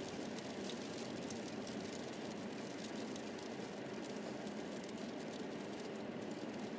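A car driving on a snowy road, heard from inside: a steady hiss of tyre and road noise with no distinct knocks or changes.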